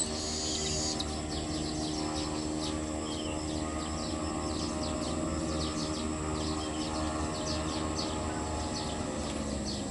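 Insects chirping in quick, repeated short calls over a steady, even hum.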